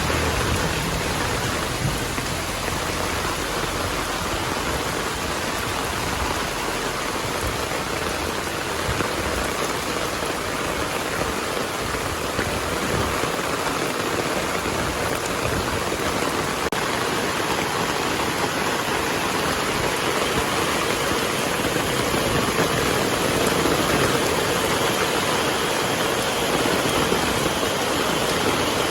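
Heavy rain falling steadily, a dense even hiss of drops on surfaces. A low rumble dies away in the first second or so.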